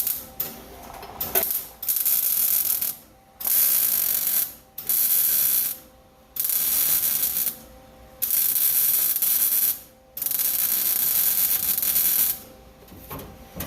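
MIG welder laying short tack and stitch welds on sheet-steel truck floor pans: six bursts of arc noise, each one to two seconds long, with brief pauses between them.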